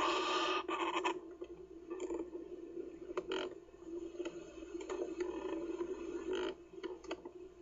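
Kookaburra chick giving short harsh rasping calls, the loudest at the start and two more a few seconds apart, over a steady low hum.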